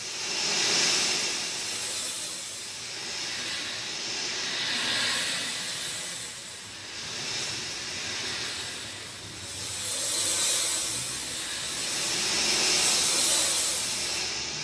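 Steady rain, the hiss swelling and easing in slow waves every few seconds.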